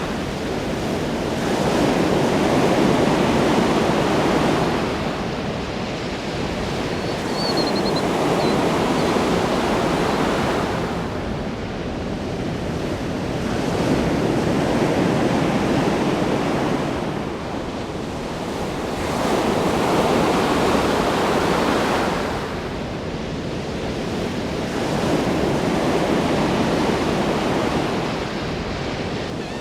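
Ocean waves breaking on a shore, each swell rising and falling about every five to six seconds, with a steady rushing hiss between them.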